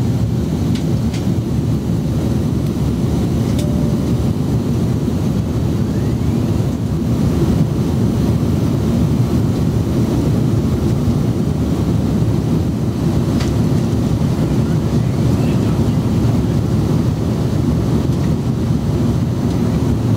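Airbus A330 jet engines and airflow heard inside the passenger cabin: a loud, steady, low rumble, with a few faint clicks.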